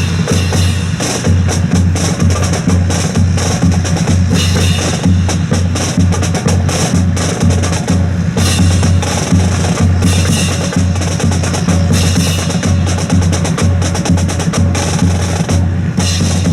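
Percussion for a drill team: a steady bass drum beat about two times a second, with snare drum and sharp wood-block-like clicks over it.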